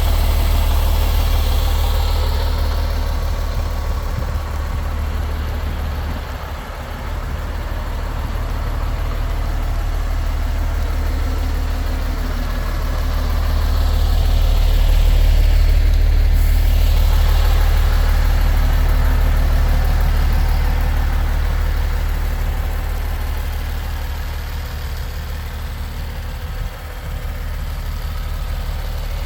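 Diesel engine of a 2020 MAN TGX 26.470 truck, a 12.4-litre straight-six, idling steadily with a deep, even hum; it grows louder for a few seconds around the middle, then settles back.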